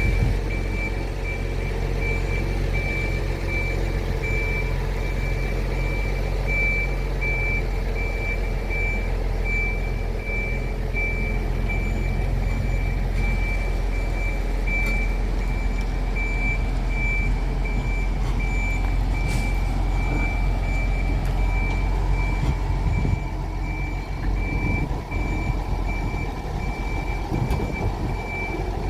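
A vehicle's reversing-warning beeper sounding a steady, evenly spaced high beep, over the low, steady hum of an engine running during a tram shunting move.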